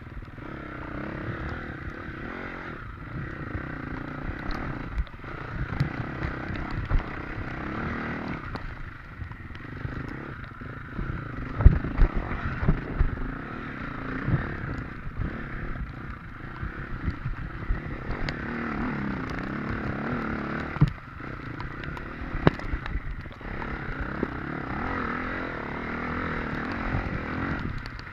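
Off-road motorcycle engine running and revving up and down while riding a rough trail, with knocks and clatter from the bike over the ground and one sharp knock near the middle.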